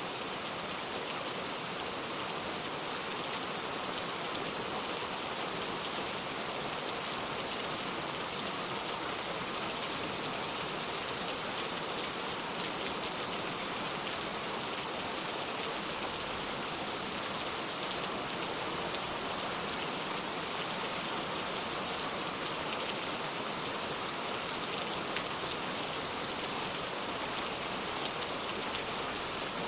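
Steady rain falling on the ground, with fine patter of individual drops.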